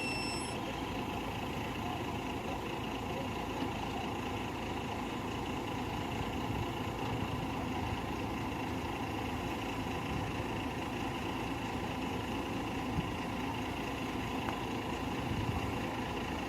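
Truck engine idling steadily, an even rumble with no change in pace.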